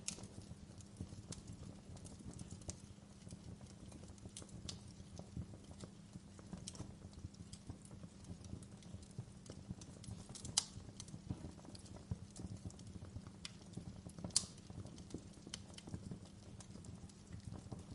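Wood fire in a fireplace crackling: irregular small pops and snaps over a low, steady rumble of burning, with two louder snaps in the second half.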